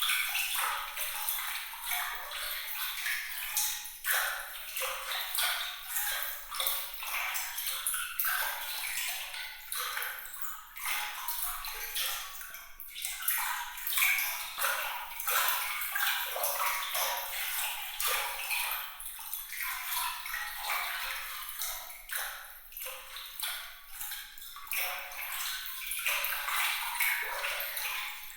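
Water trickling and splashing, with many small bright plinks of droplets.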